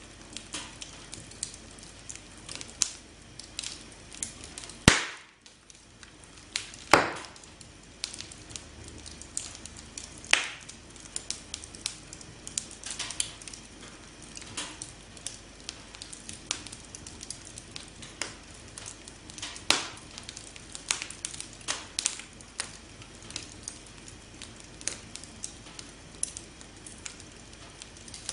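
Campfire crackling: irregular sharp pops and snaps over a soft hiss, with a few much louder pops, the loudest about five and seven seconds in.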